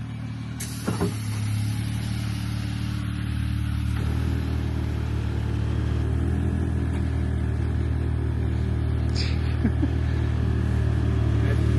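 Car engine idling just after being started, growing gradually louder, with a couple of light clicks about a second in.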